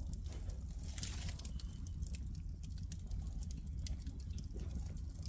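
Wood fire in a fireplace crackling, with irregular snaps and pops, a sharper one about a second in, over a steady low rumble.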